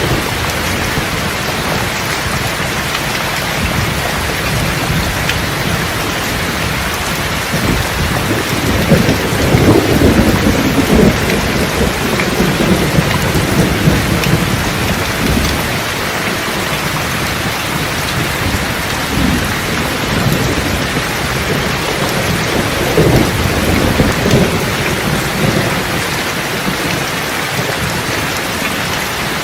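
Steady heavy rain with rolling thunder. A long rumble swells about eight seconds in and fades over several seconds, and a second, softer rumble comes about twenty seconds in.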